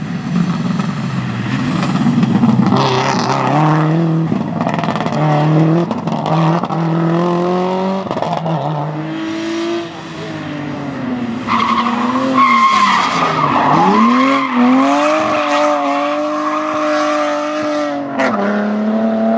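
Rally car engines revving hard, the pitch climbing and then dropping back at each gear change. Around halfway through the revs fall away and dip as the car slows, then a steady high squeal of sliding tyres joins while the engine pulls again.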